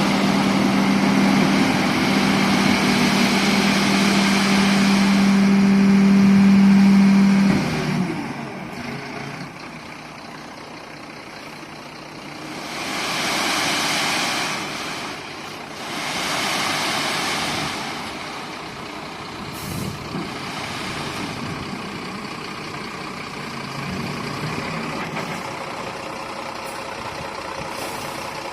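Heavy diesel machinery at work: a steady engine drone that cuts off abruptly about a quarter of the way in. It is followed by lower engine noise with two swells of rushing, hissing sound.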